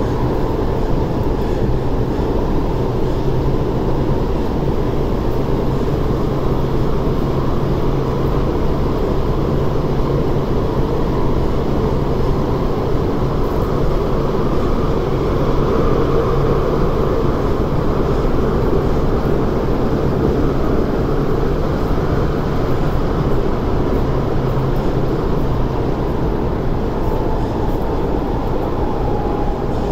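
Steady running noise of an MTR SP1900 electric train heard inside the passenger car: a low hum over the rumble of wheels on rail. Near the end a faint tone falls slightly in pitch.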